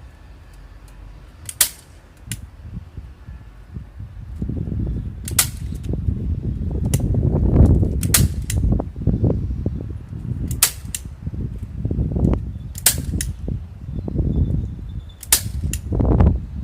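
Sharp snapping clicks, most in quick pairs, six times about every two and a half seconds, over a low rumbling of handling noise or wind.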